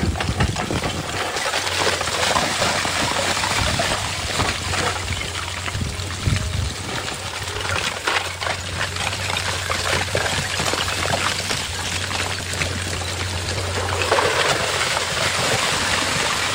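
Loose rock and gravel pouring and clattering down, a continuous crackling rush, over the steady low hum of an excavator engine that stops about 14 seconds in.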